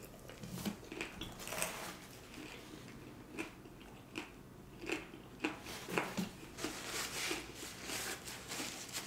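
Close-miked mouth sounds of a man chewing a mouthful of taco, with soft crunches and wet smacks at irregular intervals.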